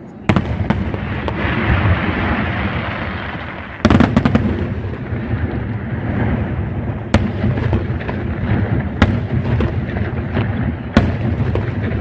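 Aerial fireworks display: a dense, continuous rumble of shell bursts with crackle. A heavy volley of bangs comes about four seconds in, then single sharp reports every two seconds or so.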